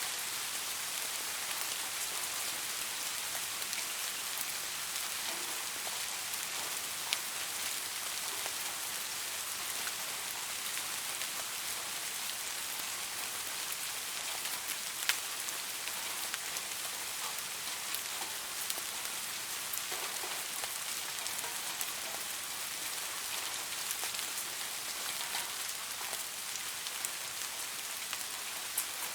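Steady rain falling on leaves: a dense, even hiss with scattered individual drops ticking through it. A couple of louder drops stand out, about 7 and 15 seconds in.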